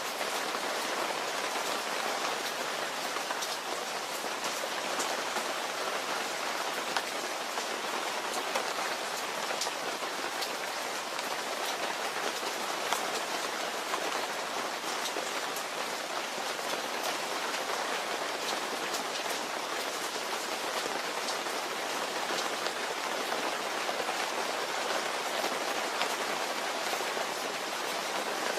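Steady rain falling, an even hiss with scattered sharper drop ticks, a few louder than the rest.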